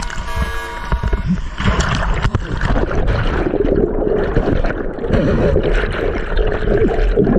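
Background music ends about a second and a half in. It gives way to muffled, churning river water with gurgling and splashing, as in a whitewater rapid when the raft has capsized.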